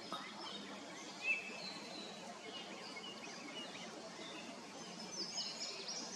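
Several wild birds singing and chirping over a steady outdoor hiss, with one louder call a little over a second in and busier chirping near the end.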